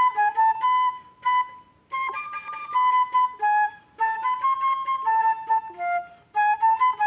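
A flute-type wind instrument playing a melody in phrases of quick notes, with short pauses about a second and a half, four seconds and six seconds in.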